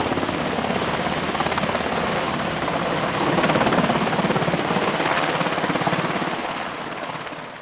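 MH-60R Seahawk helicopter flying close, its rotor blades making a fast, steady chop that fades away near the end.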